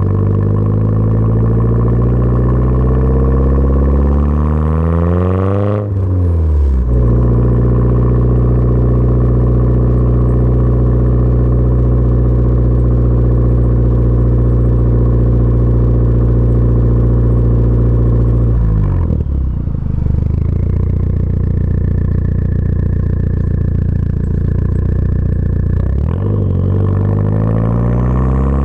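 Audi A4 1.8T turbocharged four-cylinder running through a catless downpipe and a 3-inch CXRACING cat-back exhaust. It climbs in pitch for about six seconds, drops sharply, holds a steady high note for about twelve seconds, falls to a lower steady note, then climbs again near the end.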